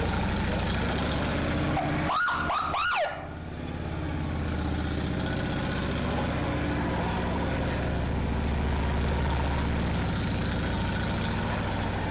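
Harley-Davidson police motorcycle's 103-cubic-inch V-twin engine running steadily, with three quick rising-and-falling siren whoops about two seconds in that cut off abruptly.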